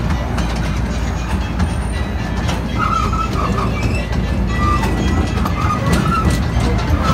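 Open ride-train carriage rumbling and clicking along narrow-gauge track, with music playing over the running noise.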